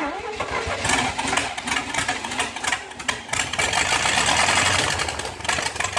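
1956 Chevrolet 265 small-block V8 cranking on the starter and firing, starting suddenly and running loud and uneven, an engine brought back from non-running with its distributor timing just moved.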